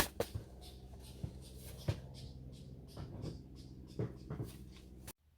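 Irregular light clicks and knocks, with some rustling, of things being handled, over a faint steady hum; the sound cuts off abruptly near the end.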